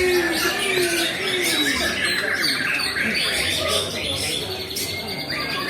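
White-rumped shama (murai batu) singing a varied song of fast trills, whistles and harsh notes, with other birdsong and people's voices in the background.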